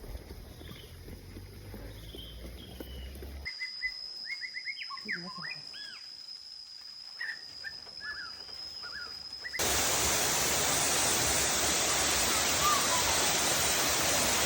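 Three cut-together outdoor sounds: a faint low rumble, then birds chirping over a steady high-pitched insect whine, then, about ten seconds in, a sudden switch to loud, steady rushing water.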